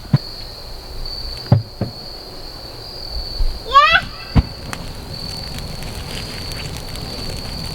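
Steady high-pitched chorus of crickets, with a few sharp pops or clicks and a brief warbling high-pitched sound about four seconds in.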